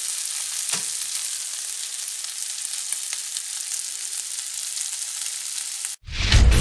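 Diced lardons and sliced onions sizzling steadily in a frying pan, with a few light clicks of the spatula. About six seconds in the sizzling cuts off suddenly and a loud low rumble starts.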